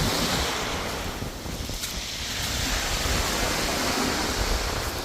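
Sea waves washing onto the shore in surges, with wind buffeting the microphone.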